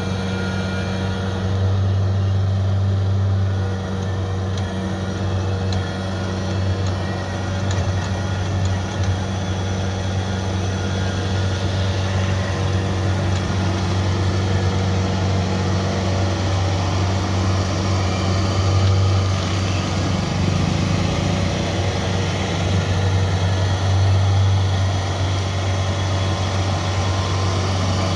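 Rice combine harvester's diesel engine running steadily, a constant low hum that stays even throughout.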